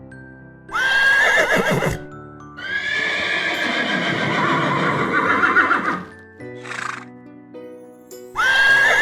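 Horse whinnying three times, the middle call long and warbling, over soft background music.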